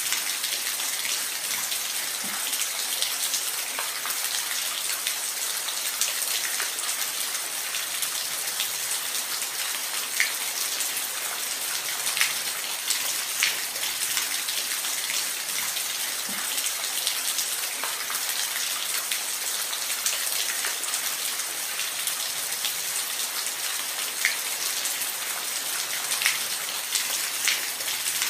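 Steady rain falling in a forest, a dense hiss of rain with many separate drops pattering close by on leaves and surfaces.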